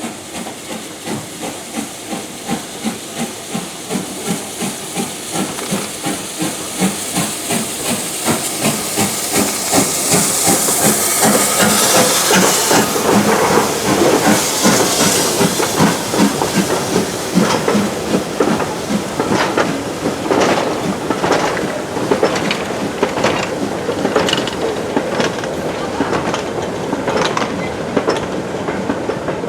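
Steam locomotive working a train past, its exhaust chuffing in a steady beat of about one and a half a second that grows louder, with a loud hiss of steam partway through. As the coaches follow, the wheels click in a rhythm over the rail joints.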